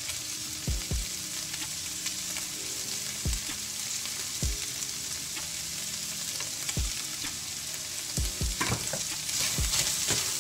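Plant-based beef crumbles with garlic and kale sizzling steadily as they fry in a stainless steel skillet. Occasional knocks of a utensil against the pan come more often near the end, as the mix is stirred with a wooden spatula.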